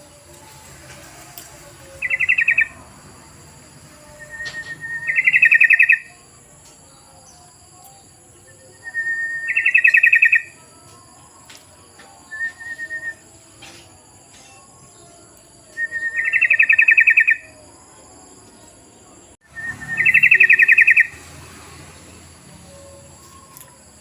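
Yellow-vented bulbul (trucukan) calling: loud bouts of rapid bubbly chatter, each about a second long, repeated every few seconds, some opening with a short thin note.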